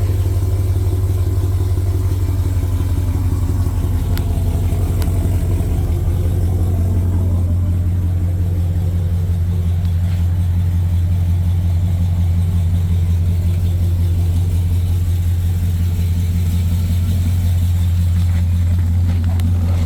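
2004 GMC Sierra 2500 HD pickup's V8 engine running steadily at idle after a cold start, with a faint tone that sinks slowly in pitch over the first several seconds.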